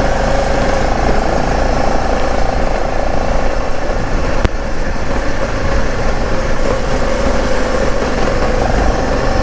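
Motorcycle running steadily under way, a constant engine note over low rumble and road noise, with one sharp click about four and a half seconds in.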